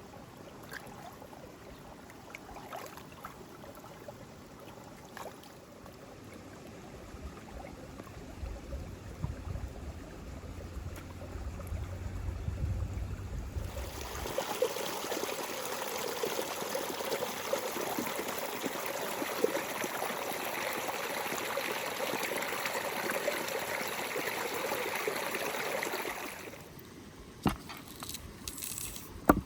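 Water running or pouring steadily for about twelve seconds. It starts suddenly around the middle and stops suddenly a few seconds before the end, leaving a few light clicks.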